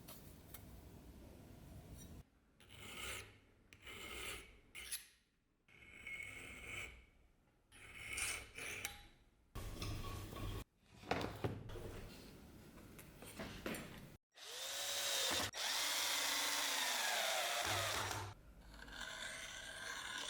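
Workshop hand-tool work on the dagger: a run of short scraping or filing strokes, then a small power tool runs steadily for about three and a half seconds before the rubbing resumes more quietly.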